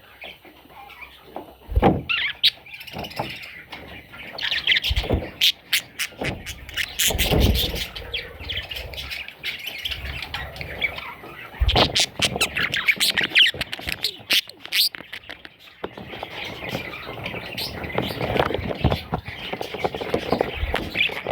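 Newborn budgie chicks chirping and squealing in a dense, high chatter, with a few sharp knocks scattered through it.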